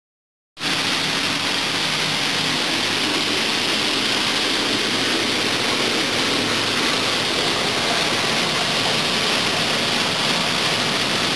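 Steady rushing of running water at an even level, with no change throughout.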